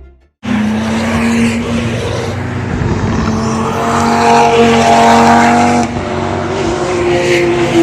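Audi car driven hard on the track: its engine holds a steady high note with tyre and road noise, starting abruptly about half a second in and shifting slightly about six seconds in.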